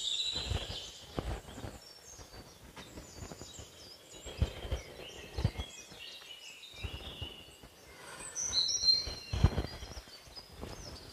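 Birds chirping and whistling in forest, with a burst of calls near the end, and a few dull low thumps.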